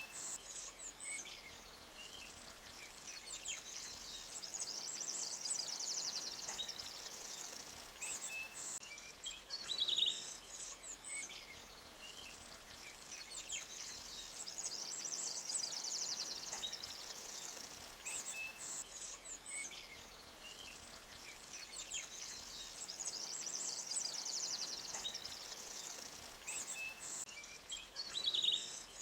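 Forest birdsong, chirps and fast high trills, over the faint steady rush of a small stream; the same bird phrases come back about every nine seconds, as in a looped recording.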